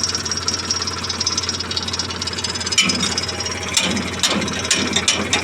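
Tractor diesel engine idling steadily, with about five sharp metallic knocks in the second half.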